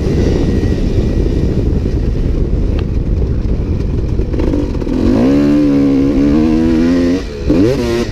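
Dirt bike engine under a rider on a motocross track: a dense rumble for the first few seconds, then about five seconds in the engine note climbs and holds high, dips for a moment near the end and revs up again.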